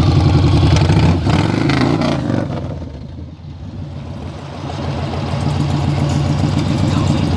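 Yamaha Star XV1900 motorcycle's V-twin engine running, revved with a rising pitch about a second in, then quieter for a couple of seconds before running steadily louder again.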